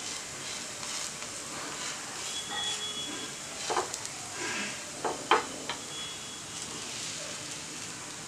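Batter-coated bread slices sizzling gently in ghee on a non-stick tawa. A few short scrapes and taps of a wooden spatula come around the middle as the pieces are turned.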